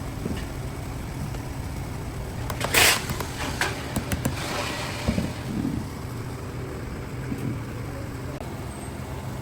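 Steady low machinery hum in a workshop, with a short burst of hiss about three seconds in and a few scattered knocks and clicks after it.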